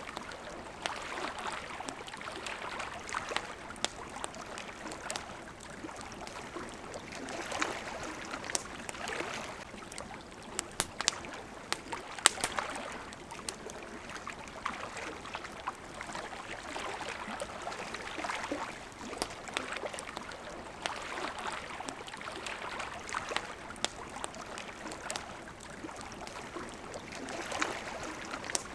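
Water lapping in gentle swells that rise and fall every few seconds, with the sharp pops and crackles of a campfire scattered over it, thickest about halfway through.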